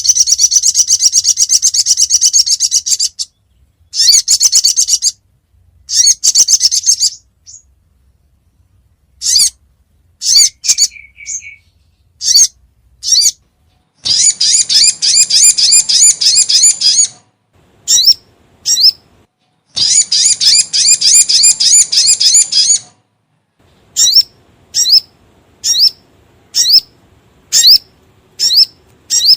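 Sogon (sogok ontong, the little spiderhunter) calling in a lure recording. Loud high runs of rapid chattering notes, each lasting about three seconds, alternate with single sharp chips and short groups of chips, with brief silences between.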